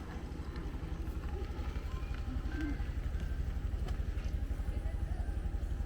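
A small engine running steadily with a rapid low pulse, with faint voices in the background.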